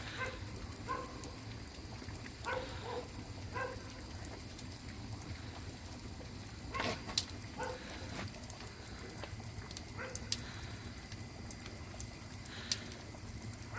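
Wood fire under a cast-iron cauldron of beef-bone broth, crackling with irregular scattered pops over a steady low hiss; one louder pop comes about seven seconds in.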